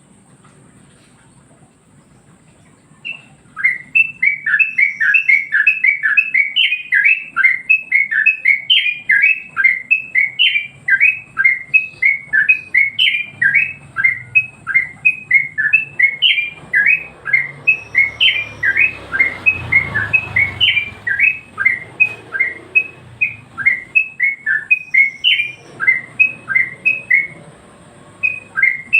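Yellow-vented bulbul (trucukan) singing: a long, rapid string of bubbly chirping notes, several a second. The song starts about three seconds in and breaks off briefly near the end.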